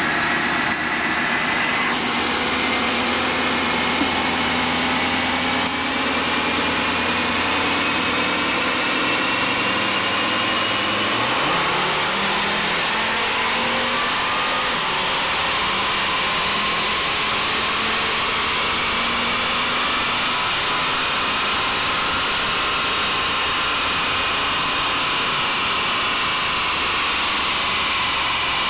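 1995 Volvo 850 T5's turbocharged 2.3-litre five-cylinder engine running on a chassis dyno. It holds steady for about ten seconds, then revs up and climbs slowly and steadily in pitch under load through the dyno pull.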